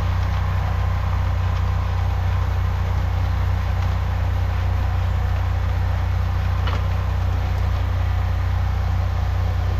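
High-pressure drain jetter's engine running steadily, a low, even drone that does not change speed. A faint click about seven seconds in.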